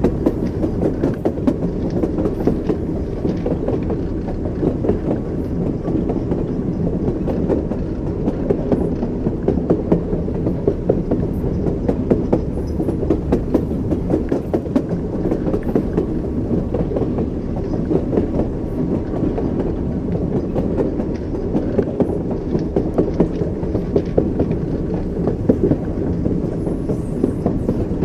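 Train wheels clattering over the rails: a steady low rumble with a constant run of clicks and knocks from a moving railway car.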